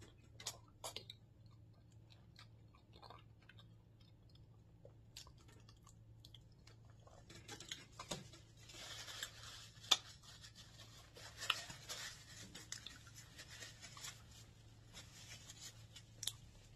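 A person chewing and eating close to the microphone: wet mouth sounds and small sharp clicks, busiest in the second half.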